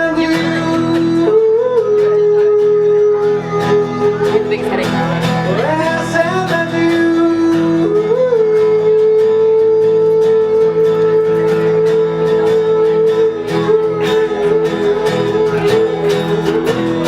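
A solo singer performing a song with guitar accompaniment, holding long notes, the longest about five seconds in the second half.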